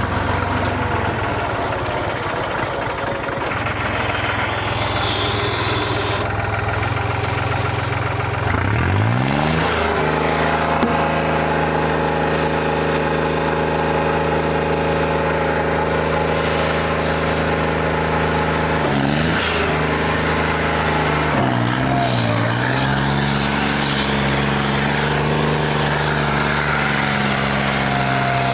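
Tractor diesel engine running, revving up sharply about nine seconds in and then holding a steady speed. Its speed sags briefly twice in the second half before it settles a little lower.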